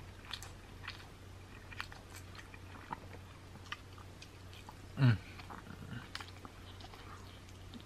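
Close-up biting and chewing of sauced buffalo chicken wings: soft wet smacks and small crisp clicks scattered through. About five seconds in comes one short, louder sound from the eater's voice that falls in pitch.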